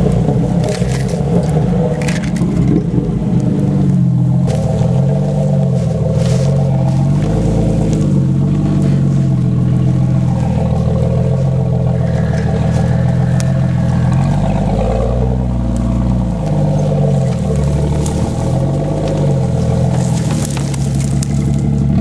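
A Jeep's engine revving up and down again and again under changing throttle while driving off-road, with a few short clicks or knocks along the way.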